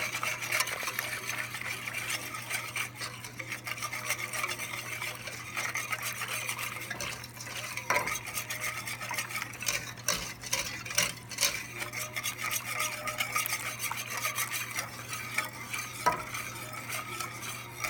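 A whisk stirring Alfredo sauce of milk, butter and sauce-mix powder in a pan: a continuous quick ticking and scraping against the pan, with a few sharper clicks.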